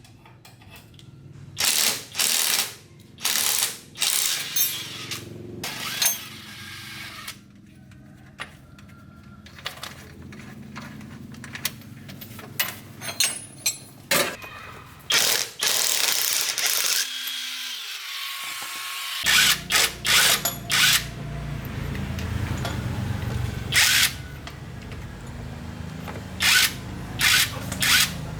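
A power tool is run in many short bursts with metallic working noise between them, with one longer run about halfway through. A low steady hum joins in about two-thirds of the way through.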